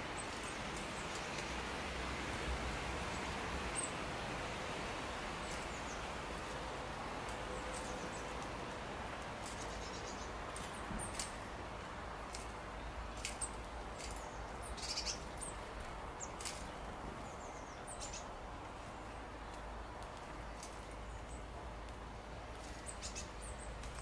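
Garden birds giving short, high chirps, scattered at first and more frequent from about ten seconds in, over a steady background noise.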